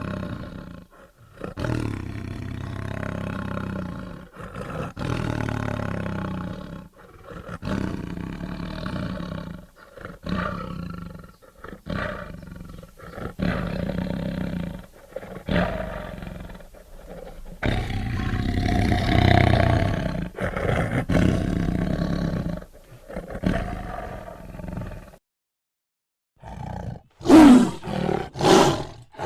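Tiger roaring repeatedly, a string of loud rough calls with short pauses between them; after a brief gap near the end come a few sharper, louder calls.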